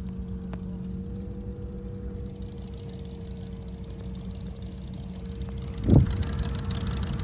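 Car engine running steadily at low revs with a low rumble, then a short, loud blip about six seconds in.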